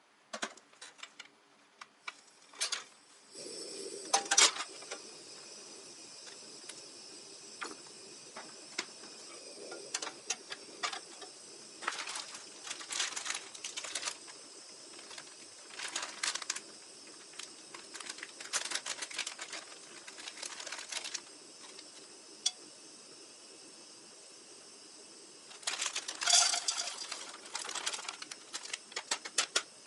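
Light clicks and taps of small objects being handled, scattered through, over a steady faint hiss; a dense run of clicks comes near the end.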